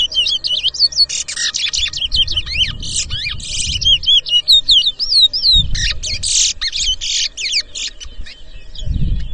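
Towa-towa (chestnut-bellied seed finch) singing in competition: rapid whistled notes, upward and downward slurs and buzzy trills. These are the songs the judges count toward the race tally.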